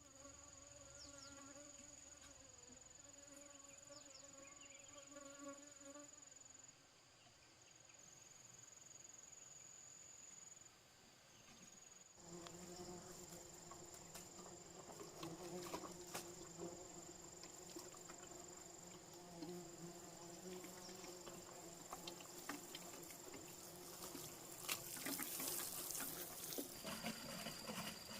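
Faint insect sounds: a steady buzzing hum that shifts in pitch about halfway through, under a thin, steady high-pitched whine.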